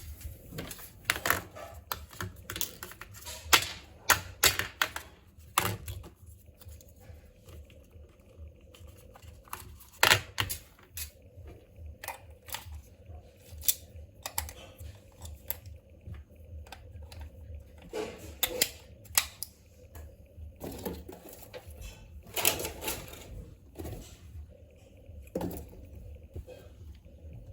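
Irregular sharp clicks and taps of small hard objects being handled, coming in clusters with short gaps between them.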